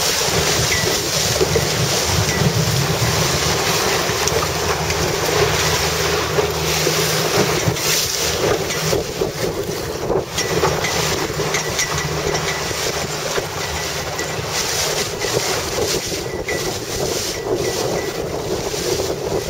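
Wind buffeting the microphone over steady water noise, heard from a boat on open water.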